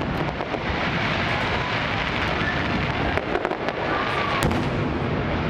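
Aerial fireworks display going off: a dense, continuous crackle of small cracks and pops, with one sharper bang about four and a half seconds in.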